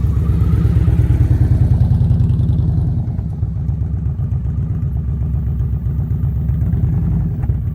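Motorcycle engine running at low speed, a little louder for the first two or three seconds, then settling to a steady low run.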